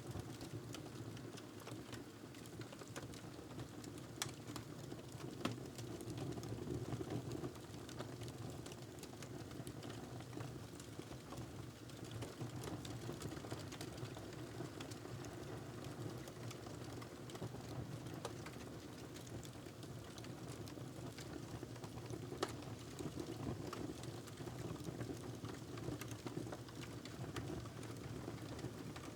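Wood fire crackling in a fireplace: steady soft low burning noise with constant small pops and snaps, a few sharper ones standing out.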